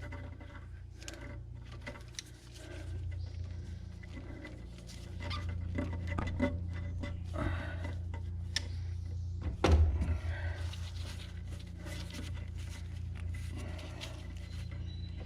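Scattered small knocks and rubbing as a rubber fuel hose is worked off a lawn tractor's inline fuel filter by hand, with one louder knock about ten seconds in, over a steady low hum.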